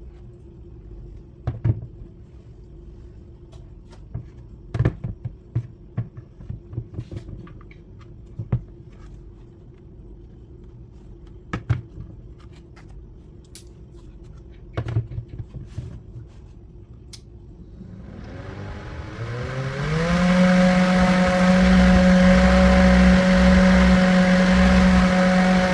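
Small DC-motor table fan spinning up: its whine rises in pitch and settles into a steady whir with a rush of air. Before it starts, scattered light clicks and knocks.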